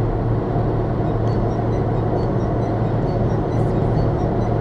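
Steady road and engine noise of a moving car, heard from inside the cabin: an even low rumble and hum with no sudden change.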